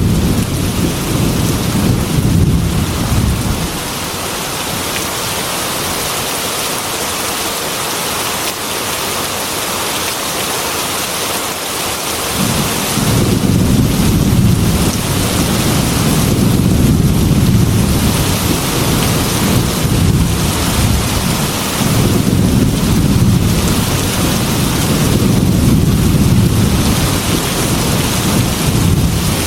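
Heavy rain pouring steadily on a metal roof, with rolling thunder. The rumbling fades a few seconds in, returns about twelve seconds in, and goes on swelling and easing.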